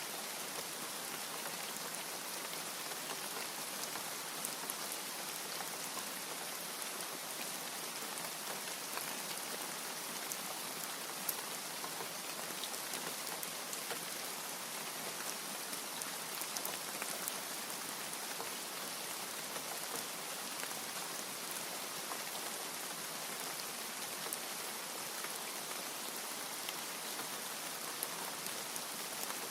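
Steady rain: an even hiss of falling rain with scattered individual drops ticking through it, no thunder.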